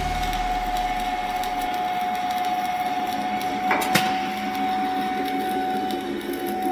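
Electric welding arc crackling and hissing steadily, with a thin steady whine over it and one sharp click about four seconds in.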